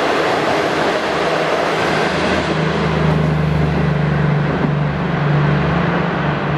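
Passenger train coaches rolling past on the rails, their rushing rumble thinning over the first two seconds. From about two and a half seconds in, a steady low hum takes over.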